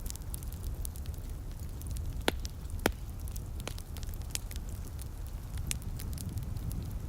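Wood fire crackling, with many small sharp pops and two louder snaps near the middle, over a steady low rumble.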